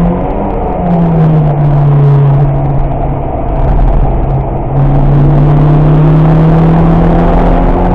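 Car engine heard from inside the cabin under track driving, its note changing with throttle: softer and lower in the middle, then picking up again about five seconds in and holding steady.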